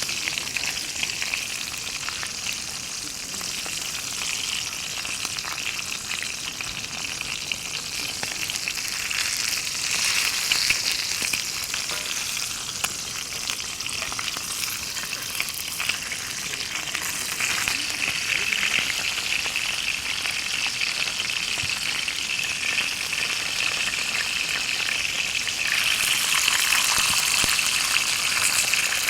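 Food frying in a hot pan: a steady sizzle of dense fine crackles that swells for a few seconds around ten seconds in and again near the end.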